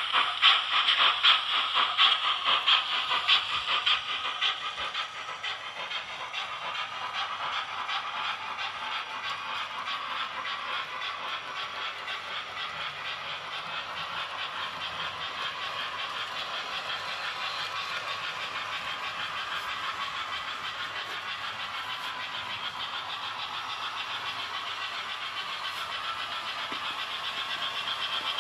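TT-gauge model train running along the track, its wheels clicking rapidly and evenly over the rails. It is loudest in the first few seconds, settles lower and steadier, and grows louder again near the end as it comes close.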